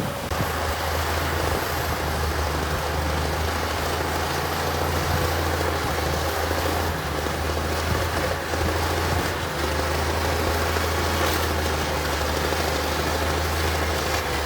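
Heavy earthmoving machine's diesel engine running steadily under load, a deep continuous drone with a fainter higher whine over it.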